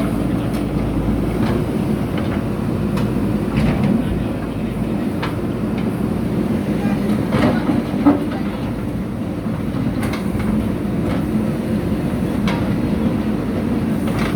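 JCB backhoe loader's diesel engine running steadily while working, with irregular clanks and knocks every second or two; the sharpest knock comes a little past the middle.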